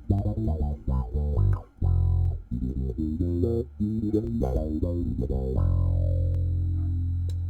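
Electric bass played through an envelope filter pedal in low-pass mode: a run of quick plucked notes, then one long held low note from about two-thirds of the way in, slowly dying away near the end.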